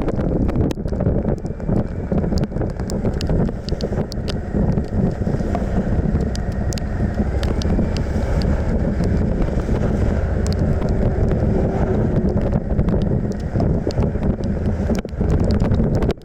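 Wind buffeting the microphone on a moving motorcycle, over the steady running of the Suzuki V-Strom 1050XT's V-twin engine, with scattered sharp ticks throughout.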